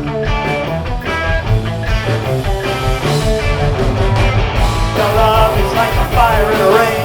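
Rock band playing live, with electric guitar over bass and drums.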